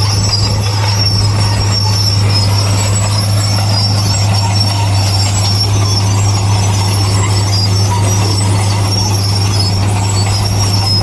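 Heavy earthmoving machine's diesel engine running steadily as a deep, even drone, with a thin high metallic squeal wavering over it.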